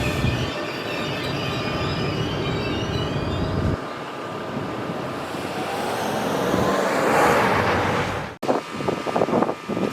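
NJ Transit commuter train running past on the rails, with a steady rumble that eases off, then swells again before breaking off abruptly. After the break come irregular gusts of wind on the microphone.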